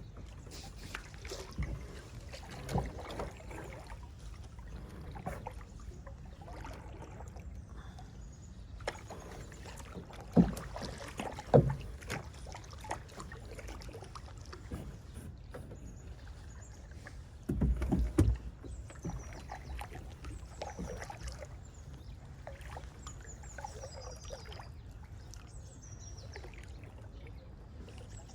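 Kayak being paddled: water splashing and swishing with the strokes, with a few sharp knocks, two about ten and eleven seconds in and a louder cluster about eighteen seconds in. Faint high bird chirps join in the second half.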